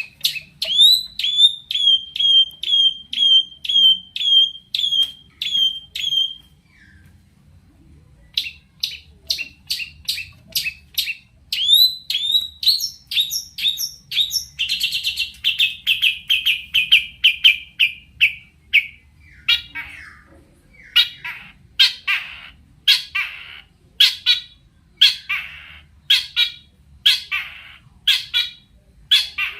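Long-tailed shrike (cendet) in full song: rapid strings of sharp, repeated notes, about two a second, with a brief pause about seven seconds in, a fast run of notes in the middle, and harsher, scratchier notes in the second half.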